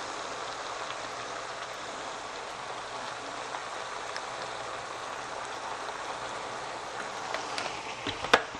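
Cabbage and smoked sausage sizzling steadily in a hot pot as vinegar is poured over them. A sharp knock sounds near the end.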